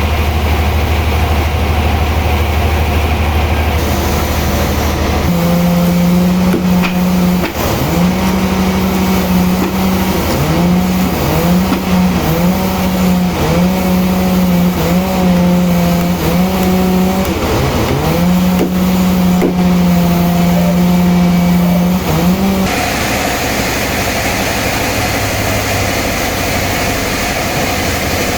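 Sawmill machinery running. A steady low hum gives way about five seconds in to a louder pitched drone whose pitch sags and recovers again and again, as a motor does under changing load while sawing a log. About twenty-two seconds in it drops back to a lower steady hum.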